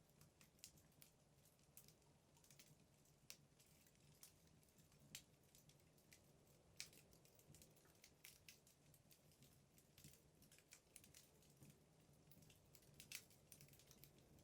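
Wood fire burning in a fireplace: faint, irregular crackles and snaps from the burning logs, a few sharper pops among them.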